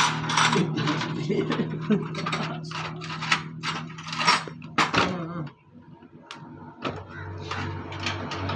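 Irregular sharp metallic taps and clicks of hand-tool work over a steady hum, stopping about five seconds in; a different low steady hum starts near the end.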